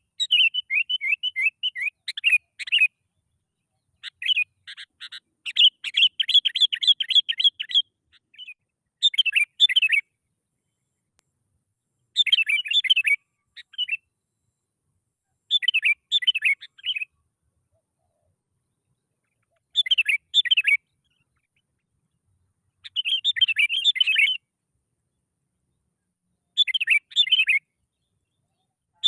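Sooty-headed bulbul (kutilang) singing: short, quick, bubbly phrases repeated every few seconds with silent gaps between them, the first two phrases longer than the rest.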